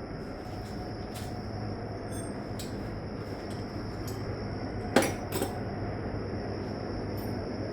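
Wrench working on the power steering hose fittings: scattered light metallic clicks and one sharp clink about five seconds in, over a steady low rumble.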